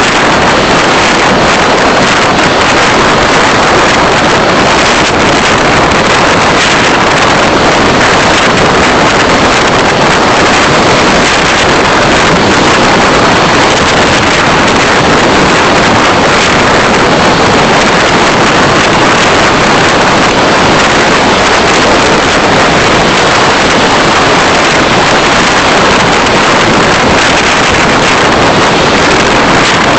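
Steady, loud rush of road and wind noise from a car driving, with no distinct engine note and no separate events.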